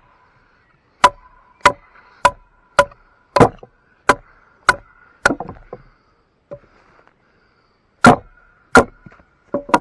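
Batoning: a wooden club knocking on the spine of a homemade knife driven into a log to split it. About eleven sharp knocks come nearly twice a second, with a gap of about two seconds before the last few, and the blade rings briefly after some of them.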